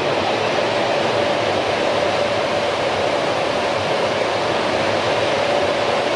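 Train at the station: a loud, steady rushing noise with a faint steady hum held through it.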